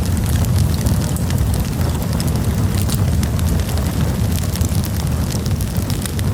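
Campfire burning: frequent sharp crackles and pops from the burning wood over a steady low rumble.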